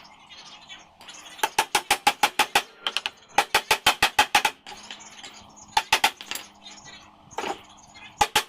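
Pneumatic nail or staple gun firing in rapid runs of sharp shots, about seven or eight a second, four bursts in a row, each shot with a short metallic ring.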